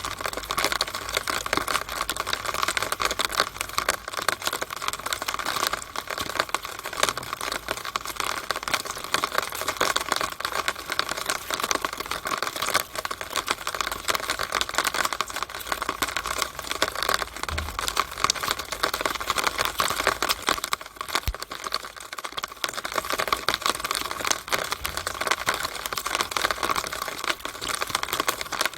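Rainwater running and dripping inside a rain downspout: a steady, dense crackle of many small drops and splashes.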